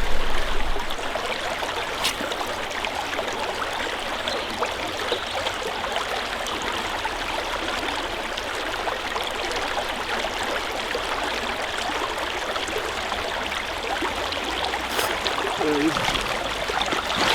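Creek water flowing, a steady rushing hiss, with a couple of brief sharp clicks, one about two seconds in and one near the end.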